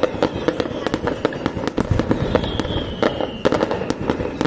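Fireworks display: a rapid, irregular stream of bangs and crackles. About halfway through, a high whistle slides slowly down in pitch.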